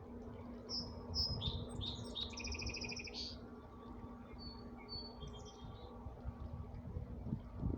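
A songbird singing: a short phrase of clear high notes falling in pitch, ending in two fast trilled notes, then a fainter, shorter phrase a couple of seconds later.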